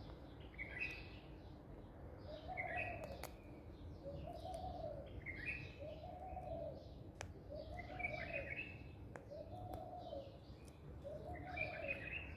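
Bird calls: a low cooing note repeated about every second and a half, six times, with higher chirps in between.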